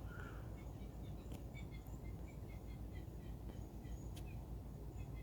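Outdoor ambience of birds chirping in many short, quick notes over a steady low rumble, with two faint clicks.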